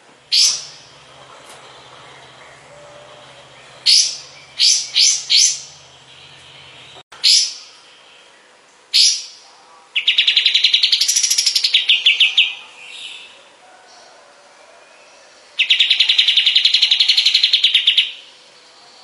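Kapas tembak songbird calling: a string of short, sharp high notes, then two fast rattling trills of two to three seconds each, the first rising and then falling in pitch.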